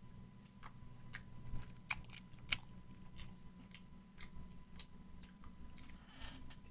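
Faint, irregular wet clicks and smacks of a person biting into and chewing a sauce-covered chicken wing.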